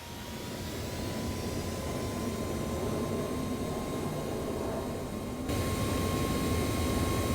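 Airbus A320 jet engines spooling up after touchdown, a steady rushing noise with a faint whine that slowly rises in pitch, consistent with reverse thrust on the landing roll. About five and a half seconds in, the sound abruptly gets louder and brighter.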